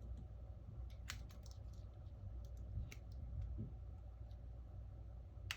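A scattering of small, sharp clicks and taps, about seven in all, from a smartphone's internal parts and tools being handled during reassembly, over a low steady hum.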